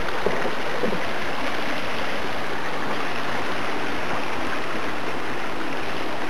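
Steady, loud rush of fast-flowing water, a stream swollen by heavy rain.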